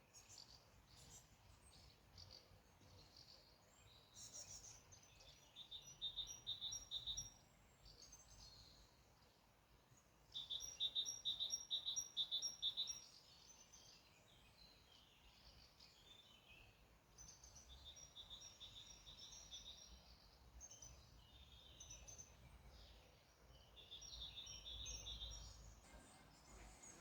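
A small songbird singing faintly: several separate phrases of quick, evenly repeated high notes, the loudest about ten seconds in, over a faint low rumble.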